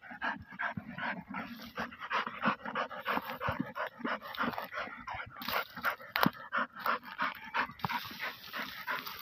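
Dog digging hard into an earth burrow, its paws rapidly scraping and flinging dry soil, several strokes a second, while it pants with its nose in the hole.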